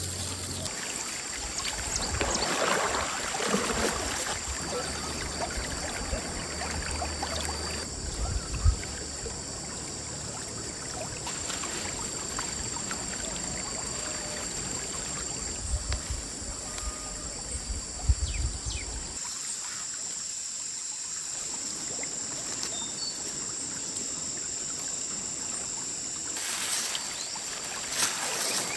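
A fast-flowing mountain stream running steadily over rocks, with a couple of short dull knocks, once about a third of the way in and again a little past halfway.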